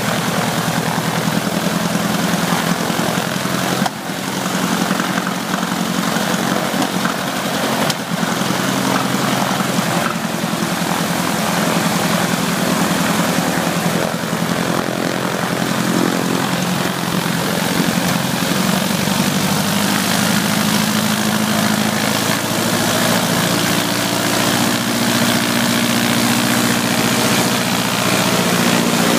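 Ercoupe's air-cooled four-cylinder engine and propeller running at a steady run-up, with brief dips about four and eight seconds in and the pitch edging up a little near the end. The engine will not run above about 1700 rpm, a fault the owner traces to the carburetor.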